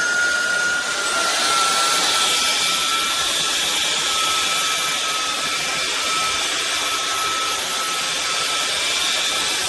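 INTETURE cordless stick vacuum running steadily: a high motor whine over a loud rush of air. The whine sinks slightly in pitch over the first few seconds.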